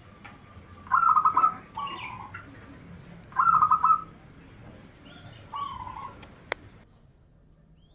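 Zebra dove (perkutut) cooing: two loud stuttering coo phrases, each followed by a lower drawn-out coo note. A single sharp click comes near the end.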